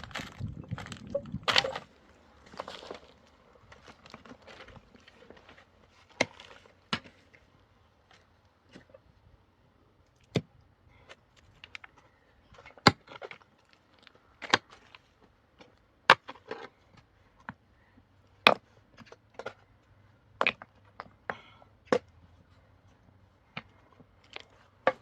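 Irregular sharp cracks and knocks, about one every second or two, after a short burst of heavier rumbling noise in the first two seconds.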